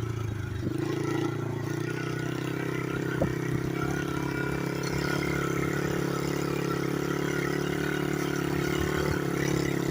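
Small single-cylinder pit bike engine running under way at a steady pitch, stepping up slightly about a second in.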